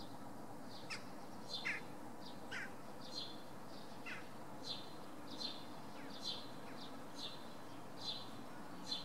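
A small bird calling in short, high, falling chirps, repeated about once a second, with a few lower chirps mixed in during the first half.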